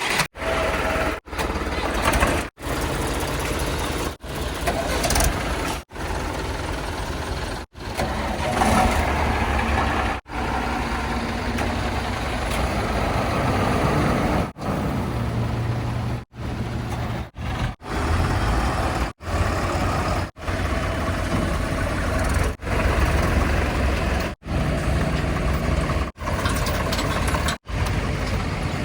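Heavy diesel vehicle engines running, backhoe loader and tipper trucks at work, cut into short pieces with brief gaps every second or two.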